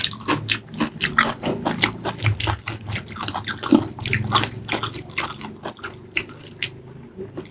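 Close-miked eating: biting and chewing food, with many quick wet mouth clicks and smacks coming several times a second.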